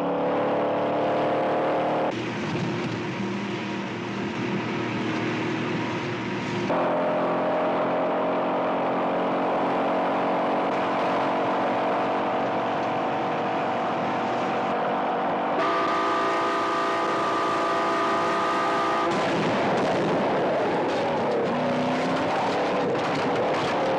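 Car engines running hard at speed in a movie car chase, the pitch and sound jumping abruptly several times as the film cuts between shots.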